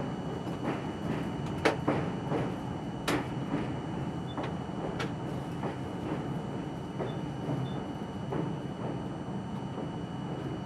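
R42 subway train running on the track, a steady rumble broken by irregular sharp clicks of the wheels over rail joints.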